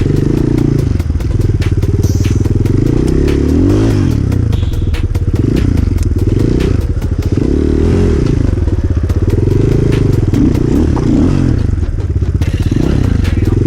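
Enduro motorcycle engine revving up and down repeatedly as it is ridden hard off-road, with frequent clattering knocks from the bike over rough ground.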